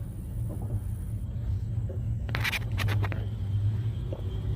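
Car engine idling with a steady low rumble, with a short cluster of scraping clicks a little past the middle.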